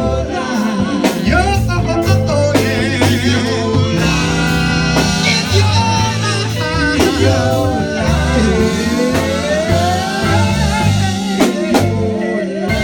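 Live gospel band playing, with drum kit, bass and guitar under a singer's wavering sung lines.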